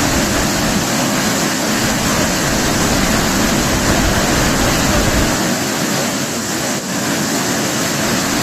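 Chōshi Ōtaki waterfall: a loud, steady rush of falling water.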